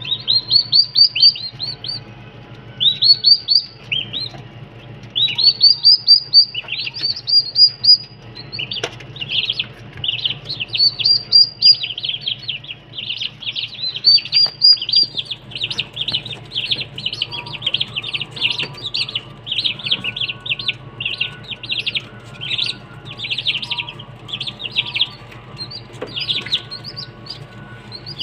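Caged birds chirping, quick runs of short high chirps repeated over and over, in spaced groups at first and then almost without pause, over a steady low hum.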